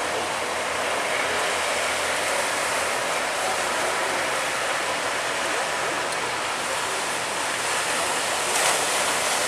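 Steady rushing of seawater and surf around a boat in big waves, an even hiss throughout.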